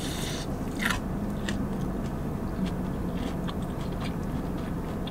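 Biting into a fried, breaded chicken finger and chewing it, with crisp crunches of the breading, the loudest a little under a second in and a few more scattered through the chewing, over a low steady background hum.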